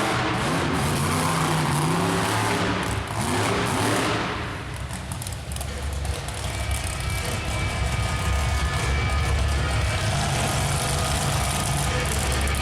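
A large vehicle engine revved up and down several times, then running steadily with a low rumble from about four seconds in.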